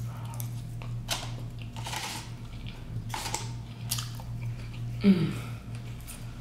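Close-up chewing of a mouthful of cubed potatoes and broccoli, with sharp mouth smacks about once a second and a short hummed sound a little after five seconds in. A steady low hum lies underneath.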